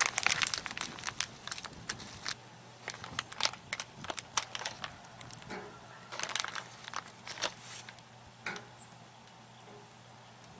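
Fat-wood fire crackling, with irregular sharp pops and snaps that are busiest in the first two seconds and thin out to scattered single pops.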